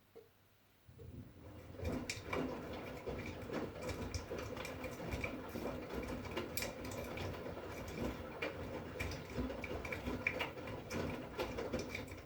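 V-Zug Unimatic SL washing machine's drum turning in a wash cycle: laundry and water slosh and tumble with irregular knocks and clicks, starting about a second in and stopping abruptly at the end as the drum pauses.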